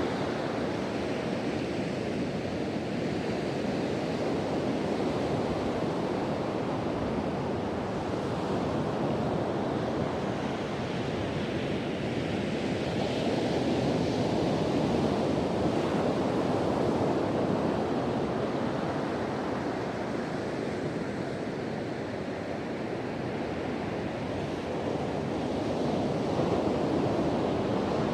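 Ocean surf breaking continuously on a beach, swelling and easing slowly, with wind blowing across the microphone.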